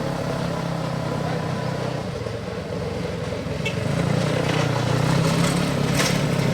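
Motorbike engine running steadily, getting louder about four seconds in.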